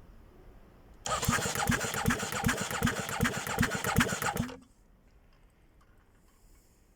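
Aprilia Rotax V990 V-twin engine cranked on its starter motor for about three and a half seconds with a steady pulse about three times a second as the cylinders come up on compression. It does not fire: this is cranking for a compression test.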